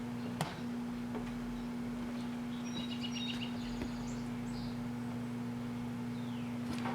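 Microwave oven running with a steady hum, broken by a few sharp crackles and brief high chirps from the fidget spinner burning inside it.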